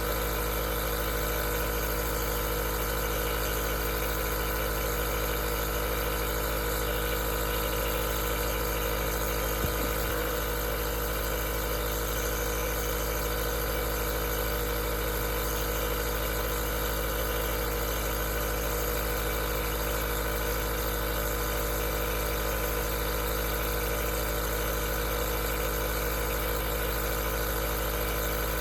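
Aerosol nebulizer's compressor running steadily, a constant motor hum with hiss. A single brief click about ten seconds in.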